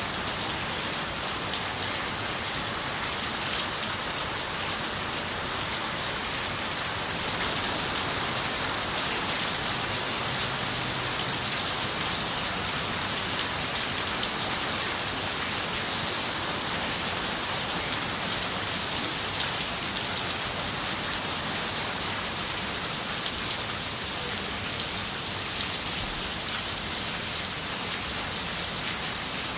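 Steady rain falling on a window, a dense even hiss with a few sharper drop ticks scattered through it. It grows a little louder about seven seconds in.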